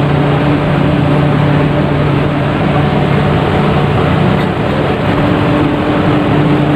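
Steady drone of a ship's engine with a low hum and a dense rushing noise, heard from inside the ferry.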